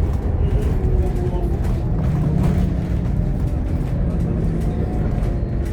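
Interior noise of a Scania K230UB OmniLink bus under way: its 9-litre five-cylinder diesel runs with a low rumble, the engine note shifting about two seconds in, with light cabin rattles.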